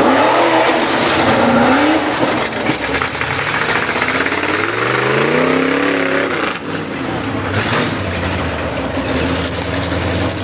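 Mud truck's engine revving hard in a mud pit, its pitch climbing and dropping several times, with the biggest rev and fall about halfway through.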